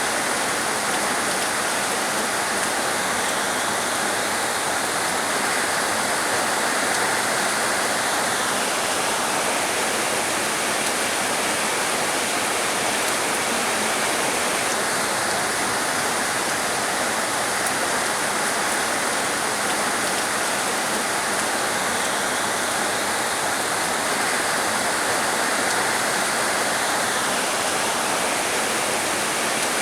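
Heavy rain falling steadily: a dense, even hiss of water without separate drops or thunder standing out.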